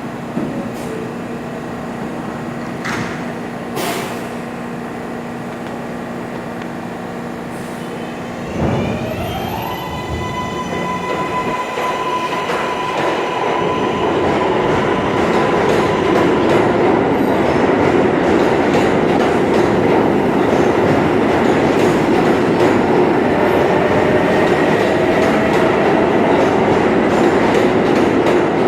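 R143 subway train pulling out of a station: a steady hum with a couple of clicks, then a sudden thump about eight and a half seconds in as it starts to move. The traction motors begin with a whine that rises in pitch and settles, and wheel and track rumble grows steadily louder as the train gathers speed.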